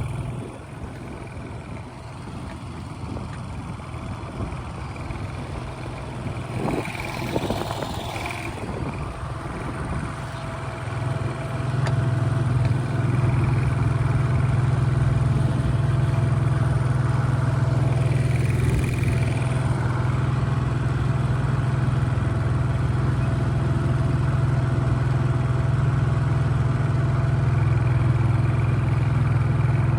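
Small 7 hp four-stroke outboard motor running steadily with a low hum, driving the boat along. About eleven seconds in, it gets clearly louder and then holds at that level.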